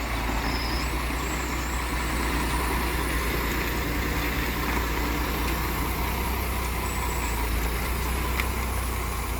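Heavy truck engine running with a steady low rumble as the truck pulls out onto the road.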